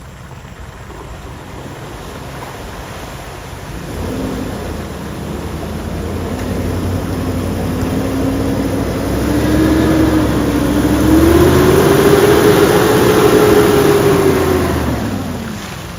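Solid-axle-swapped Chevrolet Suburban's engine revving under load as it tries to climb, its pitch and loudness rising for about ten seconds, then easing off near the end. The front wheel isn't driving: the four-wheel drive is not engaged.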